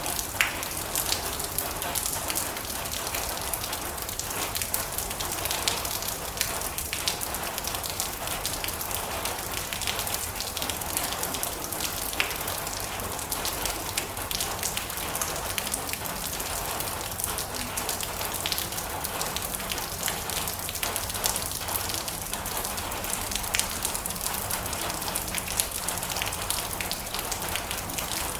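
Steady rain drumming on a metal roof, a dense hiss broken by many sharp individual drop ticks.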